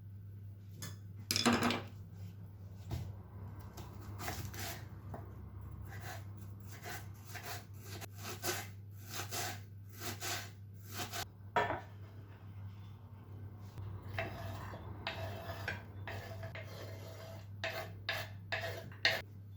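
Dishes and cutlery clinking and scraping: many irregular short knocks and scrapes over a steady low hum.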